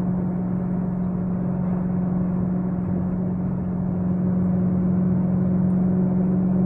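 Car running at a steady speed: a steady low engine drone with its overtones, getting a little louder over the last couple of seconds.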